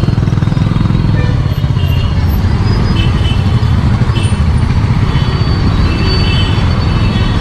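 Motorcycle engine running at a steady cruising speed, with an even low exhaust pulse under road noise.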